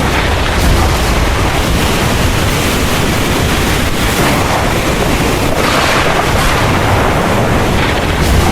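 Heavy rain pouring steadily with a deep, continuous low rumble of thunder underneath. The rain hiss swells slightly about six seconds in.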